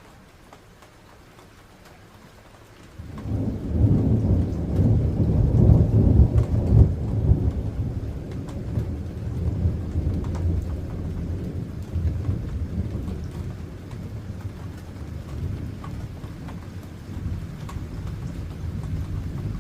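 Thunder from a nearby lightning strike. It starts suddenly about three seconds in, rumbles heavily for the next few seconds, then rolls on and fades slowly, over light rain pattering.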